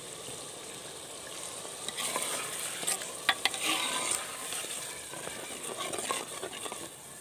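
Soaked urad (mash) dal sizzling as it fries in ghee in a clay pot. From about two seconds in, a steel ladle stirs it, and the sizzle grows louder, with sharp clicks and scrapes of the ladle against the pot.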